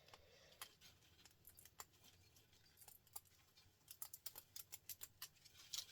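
Faint, light clicks and ticks, scattered at first and coming several a second from about four seconds in, over a quiet room.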